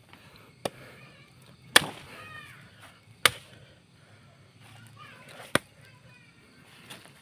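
Four sharp chopping strikes, unevenly spaced, from a freshly forged golok (machete) of leaf-spring steel. Birds chirp faintly between the strikes.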